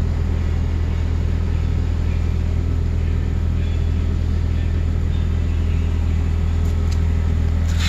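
Porsche 911 Turbo's engine idling: a steady low hum, with a brief click near the end.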